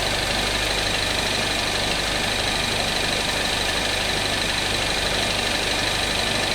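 Peugeot 408 THP engine idling steadily in the workshop, with a constant high whine over the low hum, while old automatic transmission fluid is pumped out during a fluid exchange.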